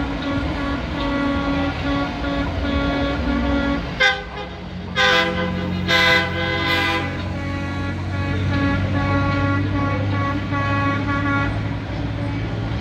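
Parade trucks honking their horns in a string of short loud blasts around the middle, over the steady sound of the trucks' engines.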